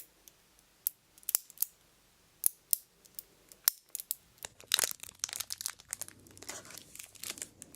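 Close-miked ASMR trigger sounds: a few scattered sharp clicks and crackles, then from about five seconds in a denser run of crinkling.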